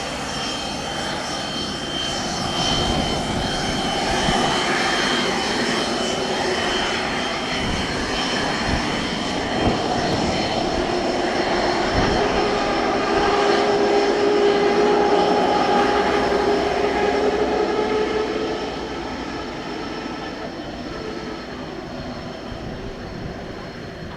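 The twin Pratt & Whitney Canada PW306C turbofans of a Cessna 680 Citation Sovereign whining at taxi power as the jet taxis. The sound grows louder to a peak about two-thirds of the way through, then fades.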